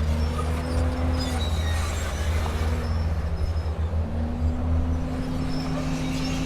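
Diesel engine of a Komatsu D31P bulldozer running steadily under work. Its pitch sags slightly partway through and picks back up about four seconds in.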